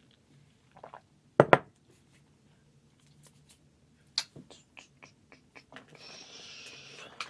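Handling noises: two loud knocks about a second and a half in, a run of lighter clicks, then a short hiss near the end.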